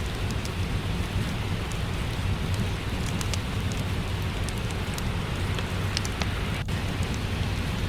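Steady rain with a low rumble, with the scattered sharp crackles of a wood fire over it.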